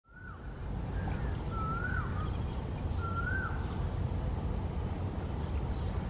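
Four short, slurred whistled bird calls, each rising then dropping, in the first three and a half seconds, over a steady low rumble.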